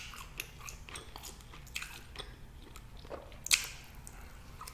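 A person chewing food close to the microphone, with irregular wet mouth clicks and smacks; one louder smack about three and a half seconds in.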